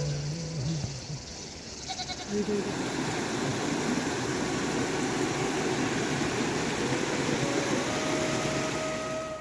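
A goat bleats briefly near the start, then steady rain falls in an even hiss.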